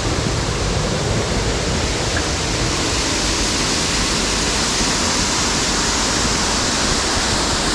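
Mountain stream water cascading over rocks and a small waterfall: a steady, loud, unbroken rush.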